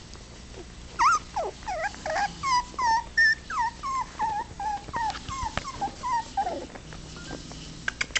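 Four-week-old puppies whimpering and yelping in a rapid string of short, high cries that bend in pitch. The cries start about a second in and die away after about six and a half seconds.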